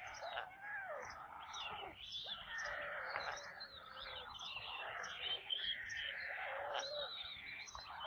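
Birds calling: a dense mix of chirps and short rising-and-falling calls, with a high chirp repeating about every half second.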